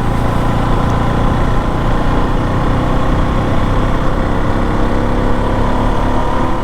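KTM motorcycle engine running steadily while the bike is ridden at an even, moderate speed.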